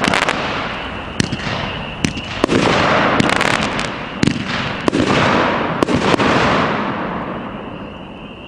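A 200-gram, 9-shot consumer firework cake (Smoking Alien 'Ice Cream Man') firing. Each shot is a sharp launch thump followed by a hissing, crackling burst of glitter comets and strobes, with several shots in quick succession, and the display dies away about seven seconds in.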